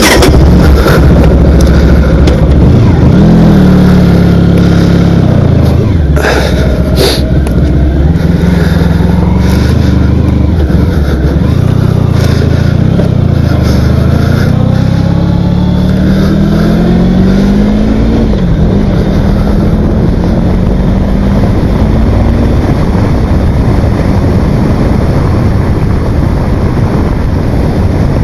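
Motorcycle engine running under way, its pitch climbing and dropping through the gears, with a sharp drop about eighteen seconds in, and broad noise over it. Two sharp knocks come about six and seven seconds in.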